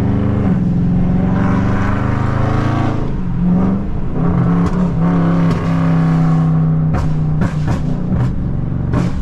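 Tuned Dodge Charger Scat Pack's 6.4-litre HEMI V8 pulling hard under throttle in track mode, its note dropping and climbing again a few times as it works through the revs. Several sharp pops sound near the end.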